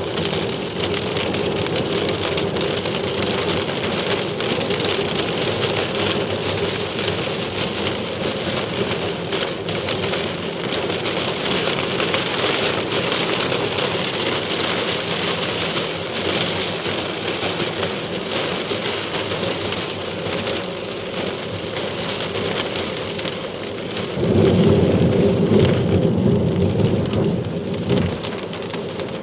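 Heavy rain falling steadily. About 24 seconds in, a louder low rumble rises over the rain for about four seconds, then fades.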